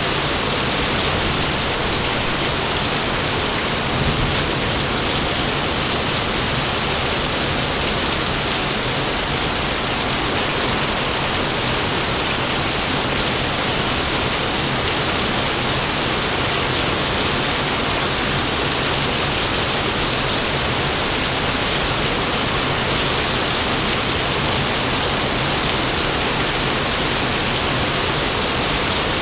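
Heavy rain falling steadily, a dense, even hiss of rain with no break.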